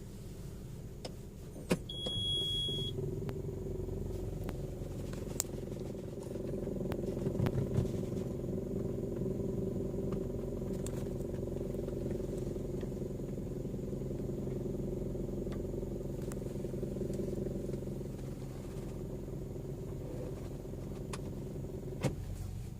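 Toyota Vios running on the move, a steady low engine and road rumble, with a few sharp clicks scattered through it and a short high tone about two seconds in. The car has an intermittent abnormal noise that neither the owner nor the service centre could locate.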